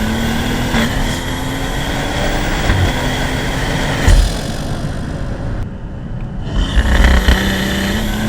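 BMW 540i's turbocharged B58 inline-six, fitted with an aftermarket cold air intake, pulling hard in gear with loud intake noise, its pitch climbing steadily. About four seconds in there is a sharp loud moment; the engine then eases off briefly and climbs again near the end.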